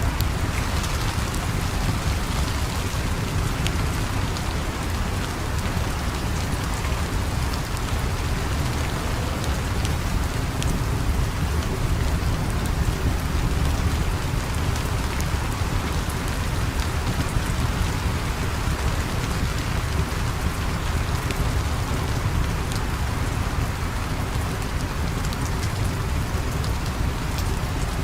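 Steady, heavy rain falling without a break, with a deep rumble underneath and scattered small drop ticks.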